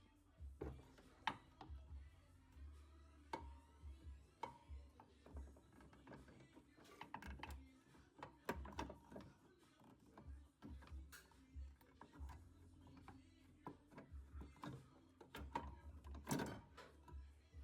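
Faint, irregular clicks and knocks, like parts and tools being handled, over a low pulsing hum.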